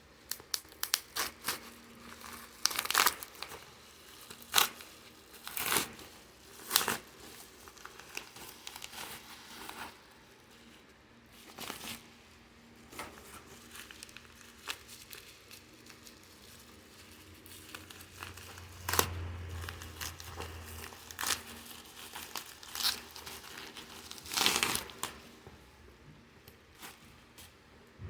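DVD packaging being handled, torn open and crinkled by hand: irregular sharp crackles and rustles, with a few louder tears.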